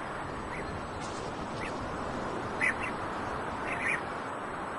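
Short bird calls, a few scattered single notes and two quick pairs, over a steady background hiss.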